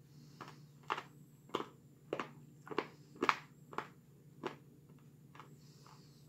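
Hard mints being chewed with the mouth closed: about ten short crunches, roughly two a second, strongest in the middle and fading near the end.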